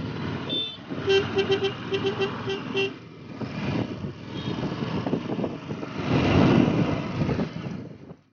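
Road traffic with a vehicle horn tooting in a quick string of short beeps during the first few seconds, over engine and road noise that grows louder near the end.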